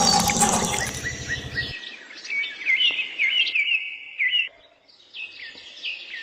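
Small birds chirping in quick runs of short, high calls. They follow a louder, noisy sound that stops abruptly about a second and a half in.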